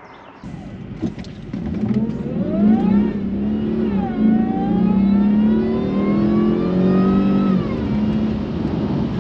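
Supercharged V8 of a Jaguar S-Type R under hard acceleration, heard from inside the cabin: the revs climb, drop at a gear change about three seconds in, climb again for several seconds, then fall away as the throttle is eased near the end. The power goes down through a Quaife ATB rear differential without wheel spin.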